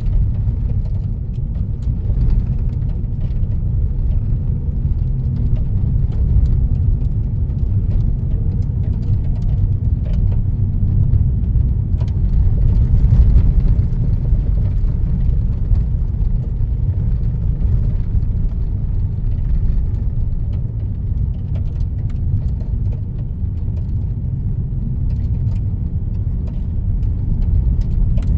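Steady low rumble of a car driving along a country road, heard from inside the cabin, with scattered faint ticks over it. It swells slightly about halfway through.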